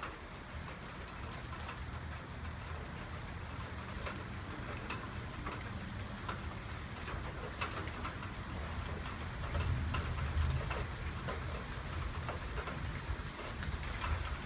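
Heavy rain falling steadily, with many sharp drop impacts ticking on a nearby surface. A low rumble underneath swells about ten seconds in.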